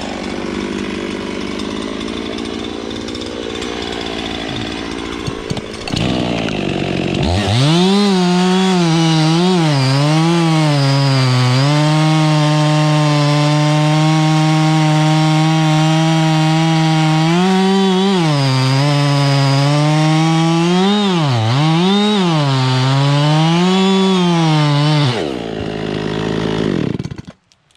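Gas chainsaw cutting oak. It runs at a lower, rougher pitch for the first several seconds, then holds a high steady whine from about seven seconds in, the pitch dipping several times as the chain loads up in the wood. Near the end it drops off and stops.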